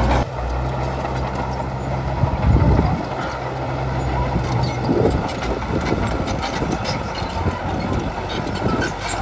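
Bulldozer's diesel engine running under load, with scattered metallic clanks; the engine swells briefly about two and a half seconds in.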